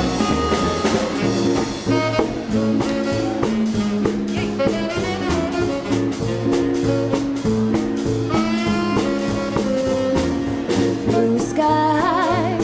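Live swing-jazz combo of tenor saxophone, electric guitar, bass and drum kit playing the instrumental introduction to an upbeat dance number, with a steady drum beat under held melody notes.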